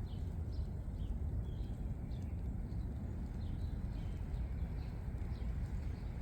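Chickens peeping: short high chirps, a few a second, over a steady low rumble.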